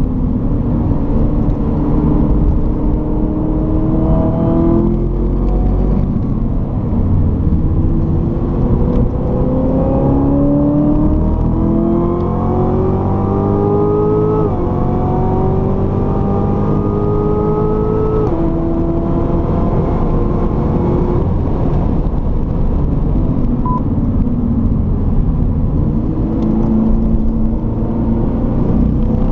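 Corvette C7 Z06's supercharged V8 pulling hard through the gears, its pitch climbing and then dropping sharply at each automatic upshift, about five, fourteen and eighteen seconds in. The pitch then sinks steadily as the car slows, and it climbs again near the end. The owner calls the automatic's shifts under load slow and rough.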